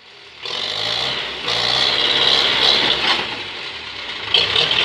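Tractor engine running steadily, with a hissing noise over it. It grows louder about half a second in and again at about a second and a half.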